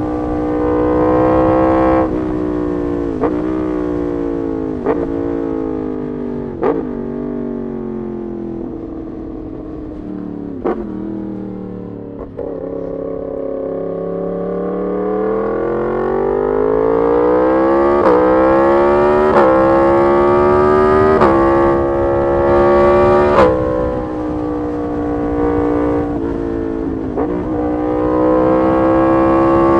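Yamaha MT-10 SP's crossplane inline-four on an SC Project exhaust, under way. The revs fall through several gear changes marked by short cracks, then the engine pulls hard and climbs through quick upshifts, each with a sharp crack from the exhaust, and settles into a rising pull near the end.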